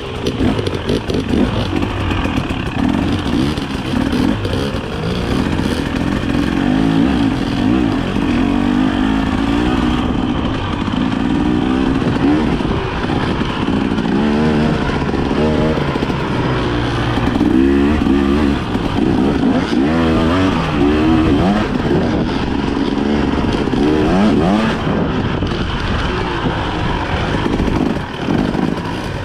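Dirt bike engine running hard on a trail ride, its pitch rising and falling over and over with the throttle.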